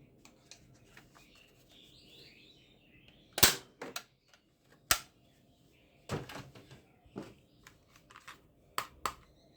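Sharp plastic clicks and knocks from toy guns being handled, cocked or dry-fired, irregularly spaced. The loudest click comes about three and a half seconds in and another near five seconds, with quicker runs of clicks around six seconds and near the end.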